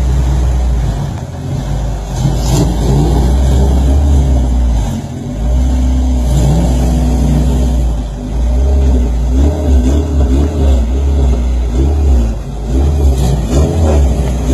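Car engines revved again and again in quick rises and falls over a deep, steady low rumble. The revving comes thickest in the second half.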